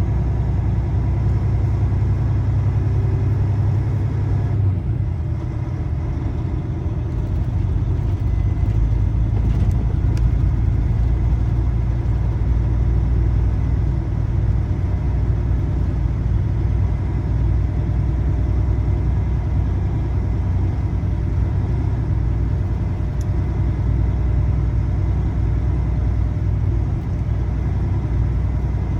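Semi truck's diesel engine running, a steady low rumble with no marked changes in pace.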